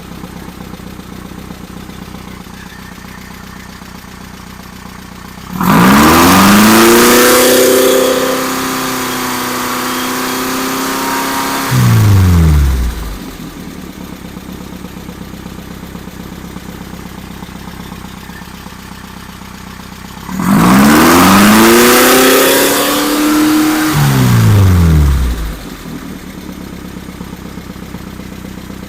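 Engine running through its camshaft break-in, revved up twice. Each time the pitch rises and is held high for several seconds, then falls back to a steady lower run.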